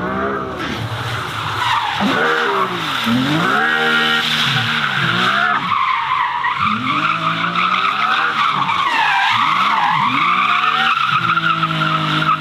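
Performance car engine revving up and down again and again while its tyres squeal in a long, wavering skid, as in a drift or burnout.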